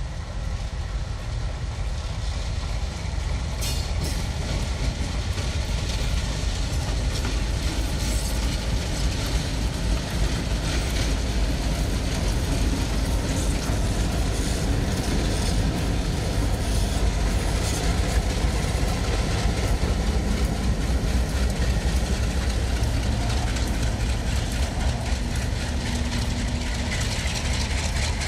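Train led by big six-axle MLW diesel locomotives rolling by: a steady low engine rumble that gets louder over the first few seconds, with wheel clicks over rail joints that come fast and regular near the end.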